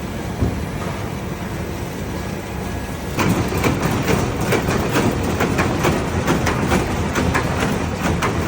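Filter-production machinery running with a steady hum; about three seconds in, a machine starts a quick, irregular run of sharp clacks, about three or four a second.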